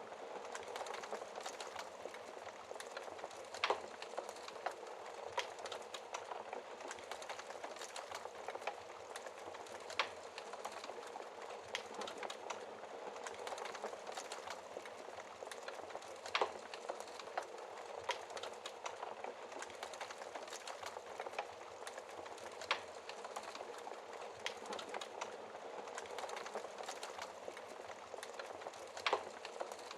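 Wood fire crackling: a steady hiss of burning with many small pops and a sharper snap about every six seconds.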